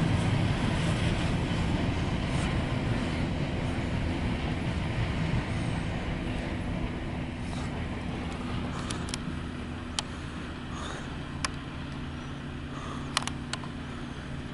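Empty coal hopper cars rolling on the rails and fading away as the end of the train recedes, over a steady low hum. A few sharp clicks come in the second half.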